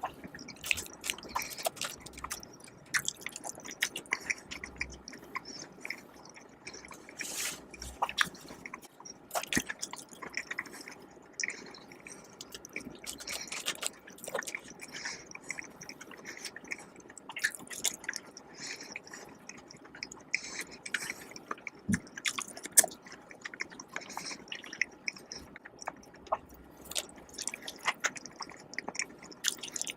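Close-miked chewing and biting of food, a steady run of irregular clicks, crackles and wet mouth sounds, with one sharper bite a little before the three-quarter mark.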